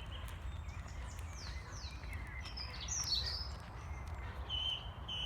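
Song thrush singing: a run of varied whistled phrases, some sweeping downward, then a short phrase repeated near the end.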